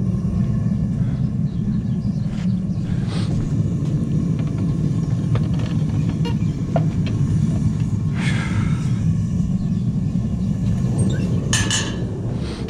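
Blacksmith's forge running with a steady low rumble, a few short sharper noises standing out about 8 and 12 seconds in.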